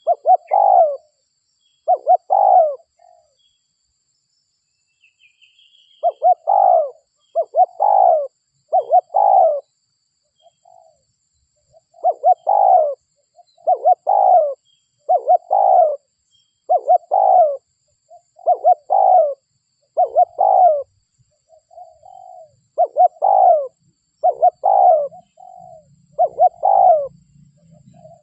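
Spotted dove (derkuku) cooing over and over, one phrase about every second in long runs, with a pause of a few seconds near the start.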